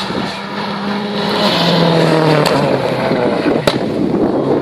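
Rally car engine running hard, its note stepping down in pitch twice as it gets louder, with two sharp cracks in the second half.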